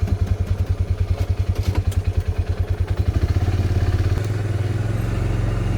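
Small vehicle engine running with a fast, even low beat, smoothing into a steadier sound about three seconds in as it picks up speed.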